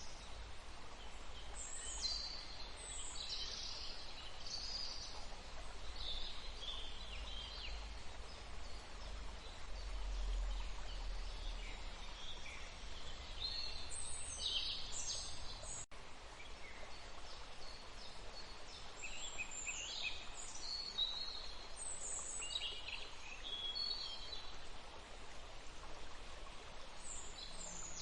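Steady rushing of flowing water, with small birds chirping in short scattered bursts over it.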